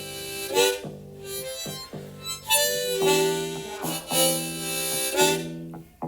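Harmonica playing an instrumental break over guitar accompaniment.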